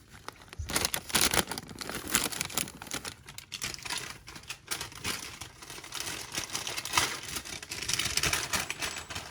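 Packaging rustling and crinkling as a small wrapped bag is handled and opened, with many irregular crackles and clicks.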